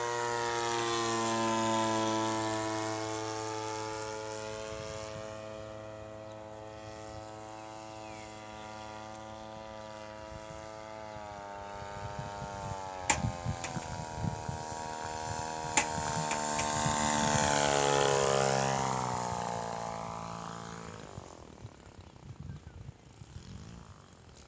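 Lawnmower-engine-powered RC model airplane flying past, its engine drone rising and falling in loudness and pitch as it comes near and goes away, twice. It fades out near the end, with two sharp clicks in between.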